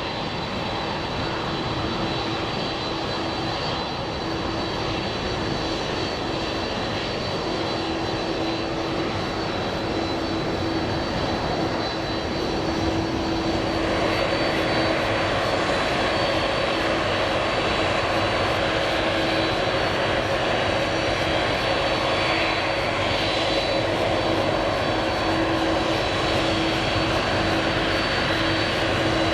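Jet airliner engines running, a steady rumble with steady tones over it, getting louder about halfway through as the aircraft comes closer.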